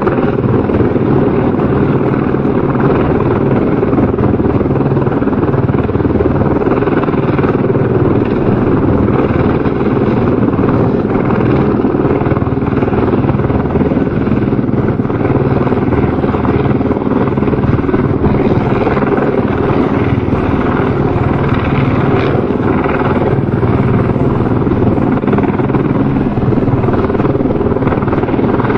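Helicopter rotor and turbine sound, steady and continuous, with the beat of the rotor blades.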